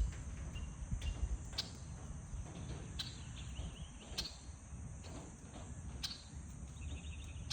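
Faint outdoor ambience dominated by a steady high insect drone, like crickets or cicadas, with a few scattered light clicks and a low rumble underneath.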